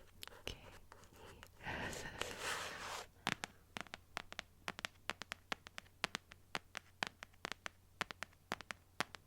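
Fingernails scratching on a box for about a second, then tapping on it in quick, uneven clicks, several a second.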